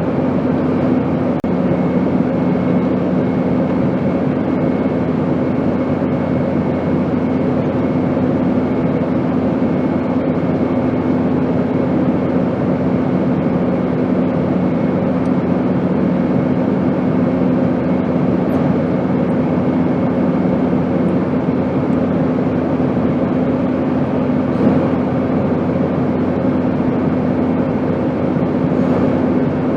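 Steady airplane noise used as white noise: an even rushing sound with a constant low hum underneath.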